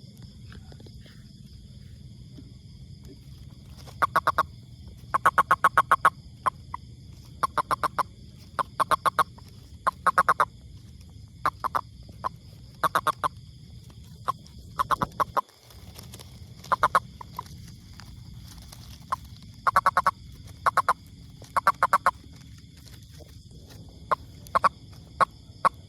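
A toad calling in short bouts of rapid, rattling pulses, each bout under a second long, repeated irregularly every second or two.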